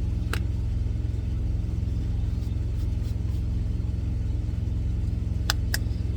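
Semi truck's engine idling with a steady low hum, and a few sharp clicks from spice containers: one shortly after the start and two close together near the end.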